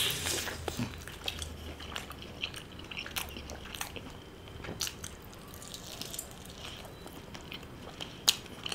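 A person biting into and chewing tandoori chicken: faint mouth and chewing sounds with scattered small clicks, and one sharper click near the end.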